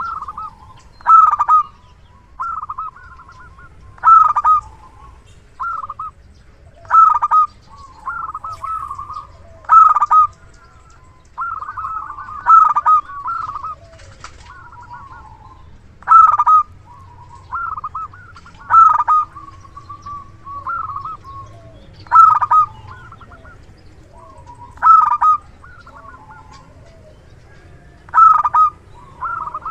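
Local zebra dove (perkutut) cooing over and over, with a loud call roughly every three seconds and softer trilled coos in between.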